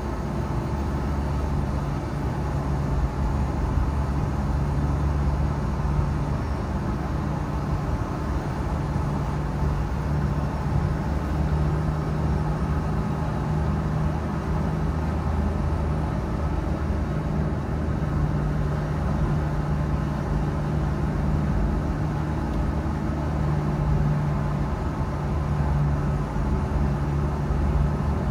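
A car driving along at a steady pace: a constant low engine drone with tyre and road noise, holding even throughout.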